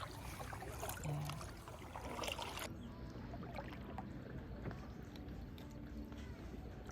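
Faint kayak paddling: water dripping and splashing lightly off the paddle blades in small, scattered trickles.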